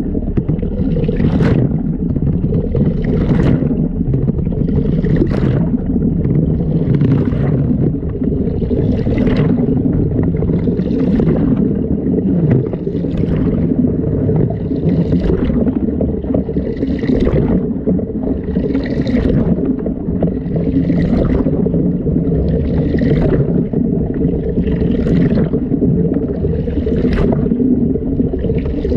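LG washing machine running a wash cycle, heard from a GoPro inside the drum: a steady low rumble with water sloshing and swishing about once every two seconds as the drum turns.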